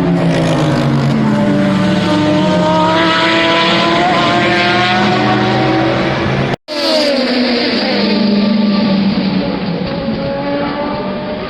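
Race car engines running on a circuit: several engine notes fall in pitch as the cars slow. About two-thirds of the way through the sound cuts off abruptly and resumes with another car's engine, its pitch falling and then climbing again near the end.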